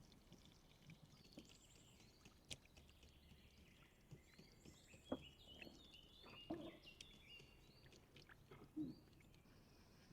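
Faint birdsong: many short, high chirps from songbirds, overlapping throughout, with a few soft knocks and clicks in between.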